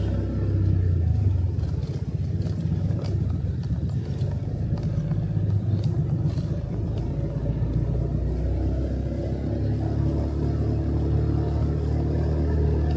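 Motorcycle engine running steadily while riding, with a low rumble and a few brief clicks or knocks about two to seven seconds in.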